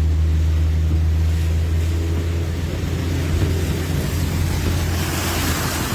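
A motor vehicle's engine running steadily with a low hum that fades near the end, as a broad rushing hiss rises.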